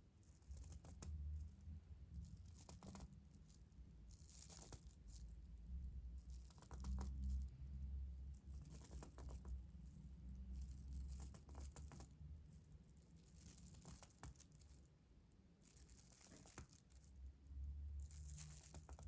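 Close-miked ASMR trigger sounds: soft, rustling, crinkly strokes about every two seconds, with a low handling rumble underneath.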